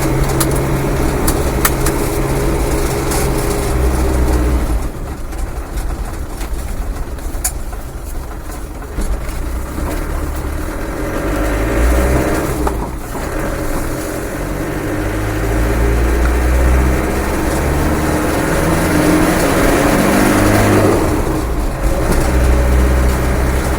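Land Rover Defender's rebuilt 300Tdi 2.5-litre four-cylinder turbodiesel running on the road. The engine note drops about five seconds in and builds again later, its pitch stepping up and down as the revs change through the gears.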